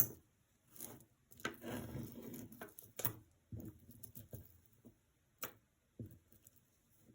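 Costume jewelry being handled: necklace chains and beads rustling, with a few light clicks as pieces knock together.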